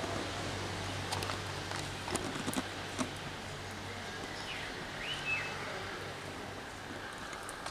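Distant Class 143 Pacer diesel multiple unit pulling away, its low engine drone fading, with a few soft clicks in the first three seconds. A bird chirps a few times around the middle.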